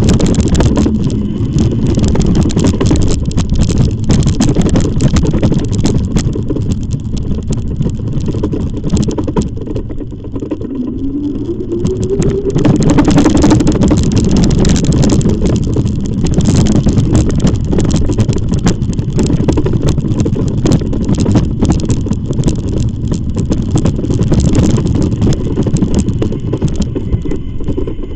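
Steady, loud low rumble of riding on an e-bike: wind buffeting the camera microphone, with tyre and road noise. About eleven seconds in, a short rising whine comes through.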